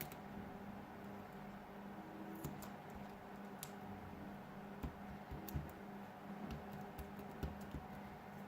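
Scattered faint clicks and light taps of a smartphone's small plastic and metal parts being handled during repair, over a steady low electrical hum.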